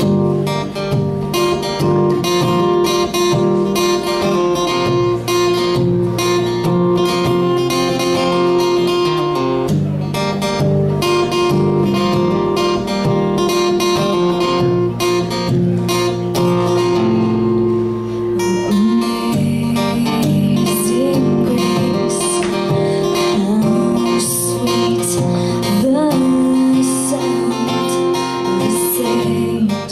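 Acoustic guitar strummed in a steady rhythm as a song intro; a voice starts singing along about two-thirds of the way in.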